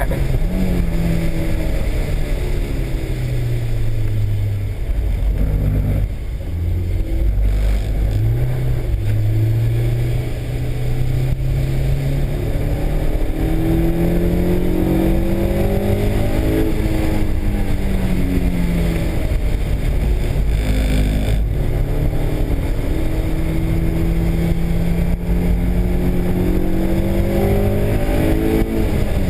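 Honda S2000's four-cylinder engine running hard through a lap, its pitch repeatedly climbing as it accelerates and dropping back as it lifts or shifts, with short dips in level about six and ten seconds in.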